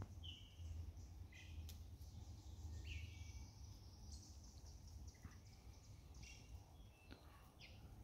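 Faint outdoor ambience: scattered short bird chirps, several sliding down in pitch, over a low steady rumble.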